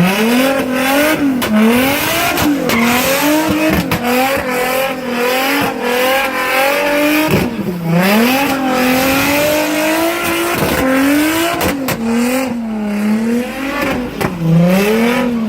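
Car engine revving hard over and over, its pitch climbing and falling back every second or two, with sharp cracks along the way.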